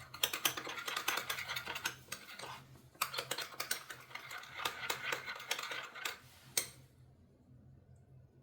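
Rapid light clicking and rattling in two bursts of about two and three seconds, then one sharp click, and quiet.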